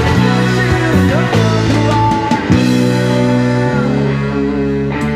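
Live rock band playing: electric guitar bending notes over drums and cymbal hits. About three and a half seconds in, the band settles onto a held chord that rings on and slowly fades.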